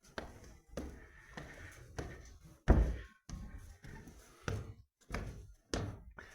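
Footsteps: a steady series of dull thuds at walking pace, about one every two-thirds of a second, the heaviest about two and a half seconds in.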